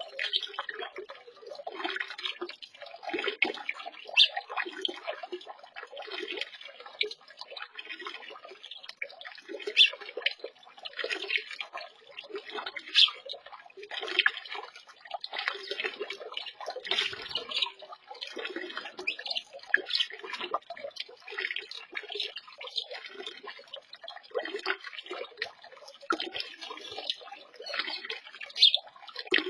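Small birds bathing in a shallow garden pond: constant irregular splashing and dripping of water, with sharp little splashes scattered throughout.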